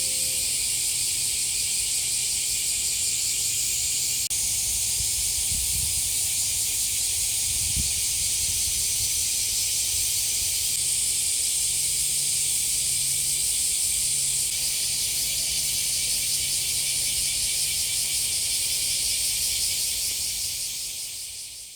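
A chorus of cicadas shrilling, one dense, steady high-pitched hiss with a fine rapid pulsing, fading out near the end.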